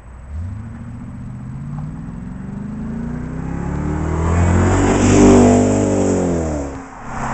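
BMW 840Ci V8 with a stainless-steel aftermarket exhaust, accelerating: the engine note rises steadily in pitch and loudness for about five seconds to a peak, then falls away. Near the end it drops off briefly before picking up again.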